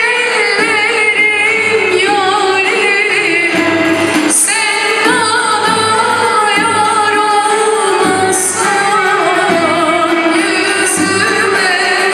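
A woman singing a Turkish folk song (türkü) in an ornamented, wavering melodic line, accompanied by a Turkish folk ensemble of violins, ouds, kanuns, clarinet and percussion keeping a steady beat.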